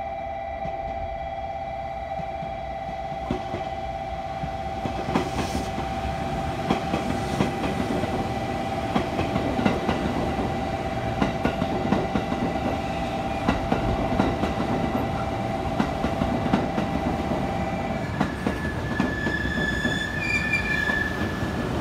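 Limited express electric train passing close by as it arrives: a rumble and clicking of wheels over rail joints that build from about five seconds in. High wheel squeal starts about three seconds before the end. A steady two-note tone sounds under it and stops just as the squeal begins.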